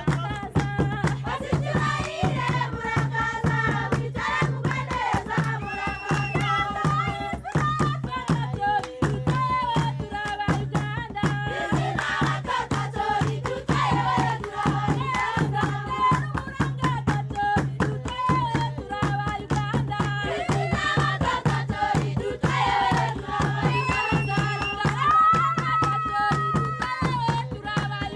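A group of voices singing together in chorus over fast, even hand clapping and a steady low beat.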